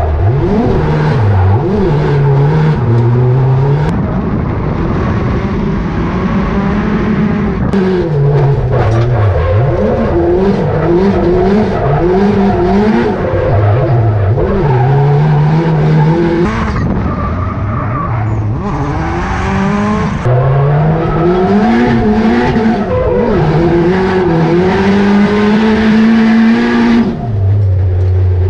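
Drift car engine heard from inside the cockpit, revving hard and repeatedly rising and falling in pitch through a drift, with tyre squeal. Near the end the revs drop to a steady low idle.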